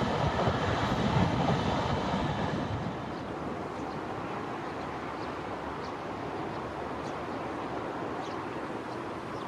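JR Freight container train rolling away, its low rumble and wheel clatter fading over the first three seconds into steady background hiss.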